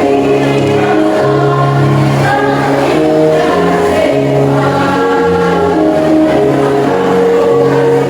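Choir singing in harmony, several voice parts holding long notes together and moving to new chords about every second.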